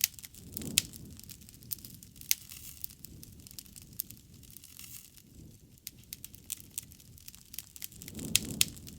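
Wood fire crackling: irregular sharp pops and snaps throughout, with a low, soft rushing swell about a second in and again near the end.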